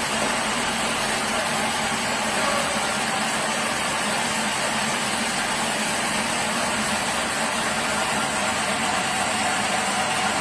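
Sawmill machinery running steadily: a constant engine-like drone with a faint steady hum, holding an even level throughout.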